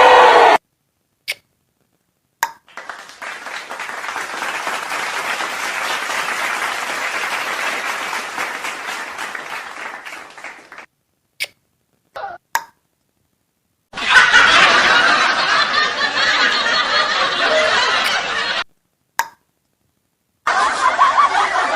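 A string of separate short comedy sound effects with silent gaps between them: a few single clicks, then several seconds of applause that swells and fades, a couple of brief blips, and a louder noisy clip about fourteen seconds in.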